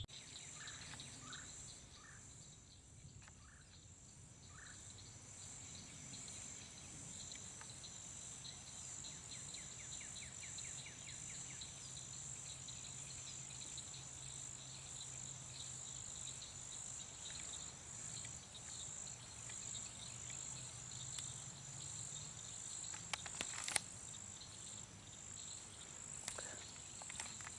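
Steady, high-pitched chorus of insects such as crickets droning in swampy woods, with five short chirps in the first few seconds.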